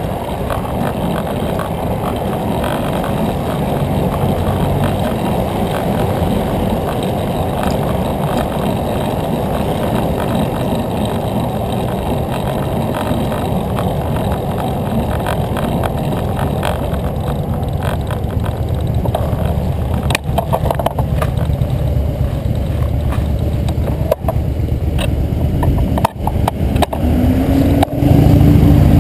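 Steady rushing noise of wind and road on a microphone riding along on a moving bicycle. Several sharp knocks come in the last third, and a steady hum starts just before the end.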